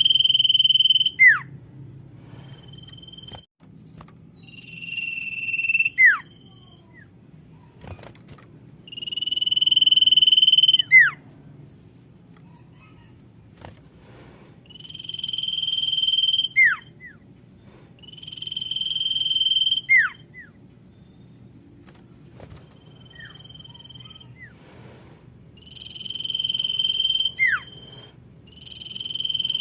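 Female common iora (sirtu) calling: a long whistled note held at one pitch and swelling in loudness, ending in a quick down-slurred note, repeated about every four to five seconds. It is the female's call to males, used as a lure to get other sirtu singing.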